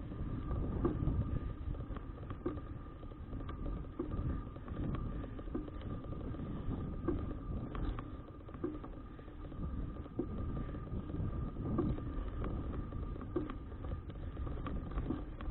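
Wind buffeting the microphone of a bicycle-mounted action camera while riding, with low road and tyre rumble. A faint steady whine runs through it, and soft knocks come about once a second.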